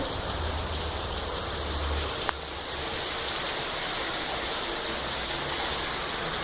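Heavy rain pouring down, a steady, even hiss. A single short click sounds a little over two seconds in.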